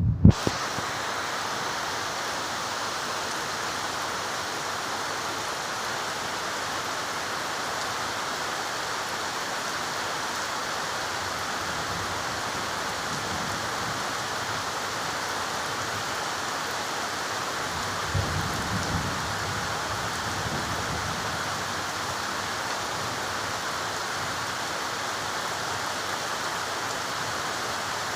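Steady heavy rain falling, an even hiss with no let-up, with a brief low rumble about two-thirds of the way through.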